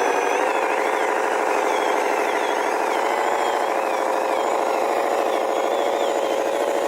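Small electric motor and plastic gearbox of a remote-control toy construction vehicle whining steadily as it runs. The pitch steps up slightly about half a second in.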